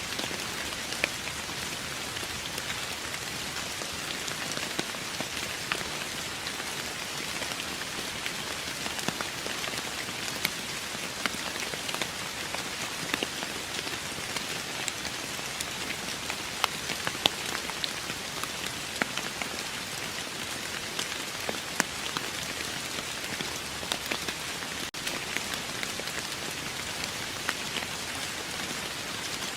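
Steady rain falling: an even hiss, with many individual drops ticking sharply on a surface.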